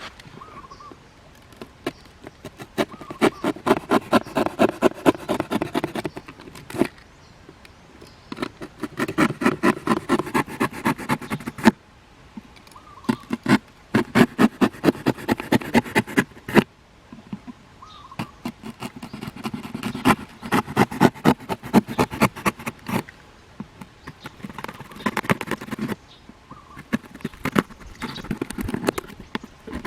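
Rapid series of hollow knocks or taps, several a second, in runs of about three to four seconds with short pauses between.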